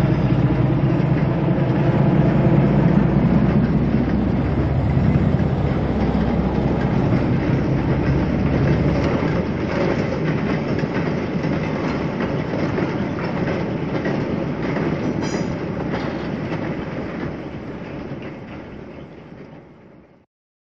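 Train passing: a heavy engine drone for the first half, then wheels clattering rhythmically over rail joints as it draws away, with a brief high squeal about fifteen seconds in. The sound fades out near the end.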